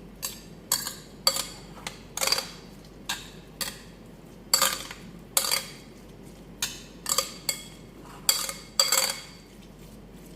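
A utensil scraping and clinking against a bowl in irregular strokes, one or two a second, as cooked rice is stirred into a yogurt, egg and turmeric sauce to turn it yellow.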